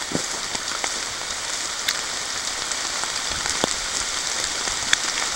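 Steady moderate rain falling on forest leaves and the lake, an even hiss with a few scattered sharp taps.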